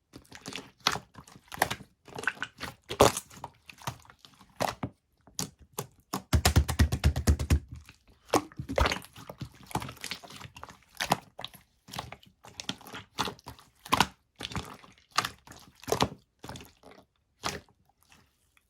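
Slime being squeezed and pressed by hand, giving a long irregular string of sharp clicks and crackling pops, with a dense rapid run of pops and soft thuds about six seconds in.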